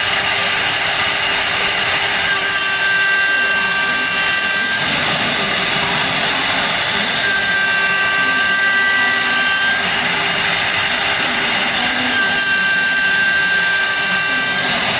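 CNC wood-turning lathe running, a loud steady machine noise with a constant hum. A high whine rises out of it three times, each lasting about two seconds, about every five seconds.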